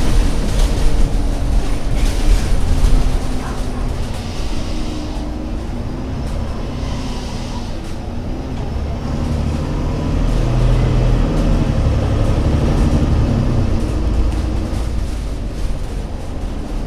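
Engine of an Alexander Dennis Enviro500 MMC Euro 6 double-decker bus running under way: a low, steady rumble whose engine note grows stronger about halfway through and eases off again near the end.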